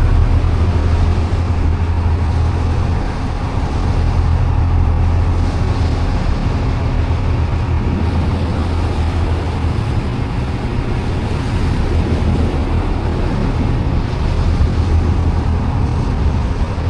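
A boat's engine droning steadily while the boat is underway, with a steady rushing noise over it.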